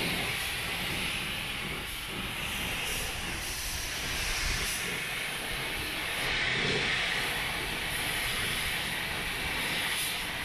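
Steady hissing noise that swells and eases slightly in level.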